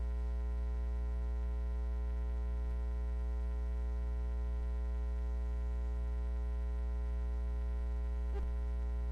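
Steady electrical mains hum, a low buzz with many evenly spaced overtones that holds level throughout, on the announcer's microphone and sound feed. A faint tick sounds near the end.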